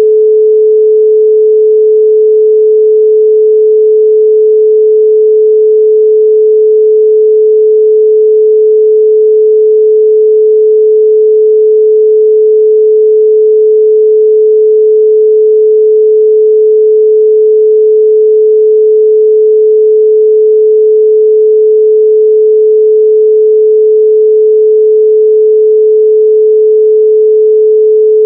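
A 432 Hz pure sine tone, held at one unchanging pitch and level.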